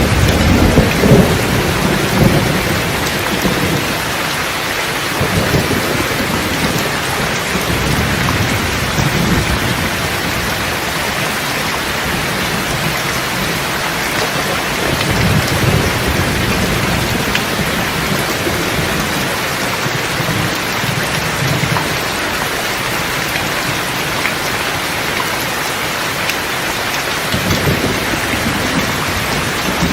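Steady rain with rolling thunder: low rumbles swell at the start, again about halfway through, and once more near the end.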